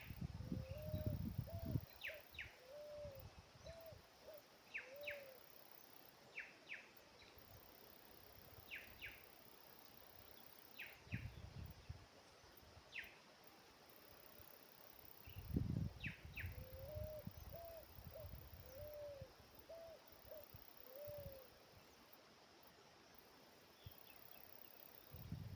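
A bird calling a run of about eight short, low hooting notes, repeated once about fifteen seconds later, with faint higher chirps scattered in between. Low rumbling handling or wind noise comes and goes.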